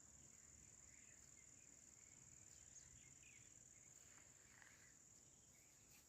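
Crickets chirping faintly in a steady, high-pitched drone, with a few faint short chirps scattered through it.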